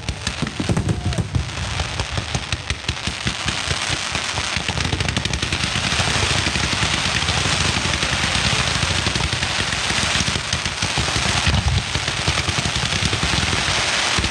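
Mascletà firecrackers going off in a dense, rapid rattle of cracks and bangs that thickens into an almost continuous roar about halfway through.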